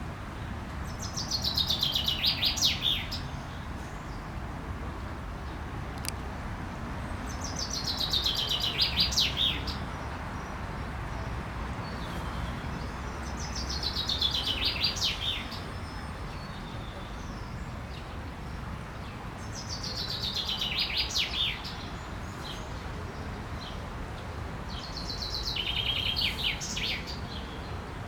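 A songbird singing the same short phrase five times, about every six seconds: each phrase is a quick trill that falls in pitch and ends in a brief flourish.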